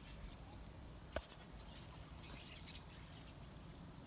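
Faint chattering of a large flock of European starlings, a scatter of short high calls over a low background rumble, with one sharp click about a second in.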